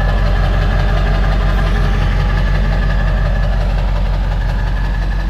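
Pickup truck engine idling steadily, with an even low pulsing.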